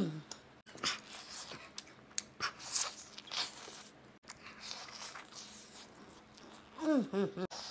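Close-up chewing and crunching of crispy fried chicken: crackly bites and wet chewing, with a short hummed vocal sound about seven seconds in.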